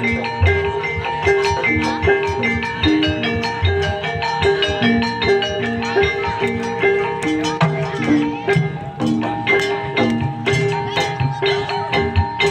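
Javanese gamelan music for Banyumasan ebeg: metallophones play repeated ringing melodic notes over low drum strokes, in a steady rhythm.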